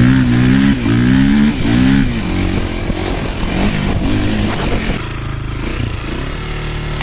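Dirt bike engine revving hard, its pitch climbing and dropping several times in quick succession as it shifts up through the gears, then running lower and quieter in the last couple of seconds.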